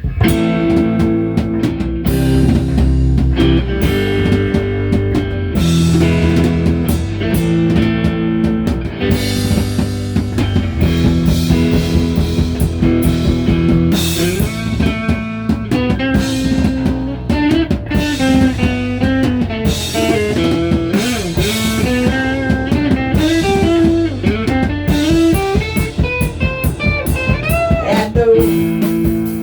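Rock music without vocals: guitar over bass and drum kit, kicking in all at once, with a lead guitar playing bending, sliding notes through the second half.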